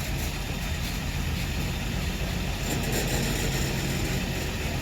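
Freight train's diesel locomotive running with a steady low engine hum.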